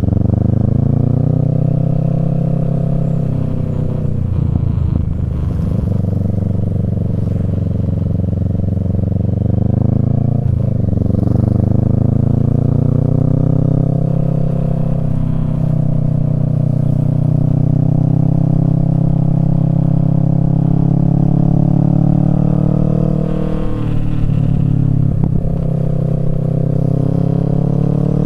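Kawasaki Z650's parallel-twin engine through a Yoshimura Alpha exhaust, heard while riding. The revs climb and then dip briefly three times, at shifts or on and off the throttle, and hold fairly steady in the middle stretch.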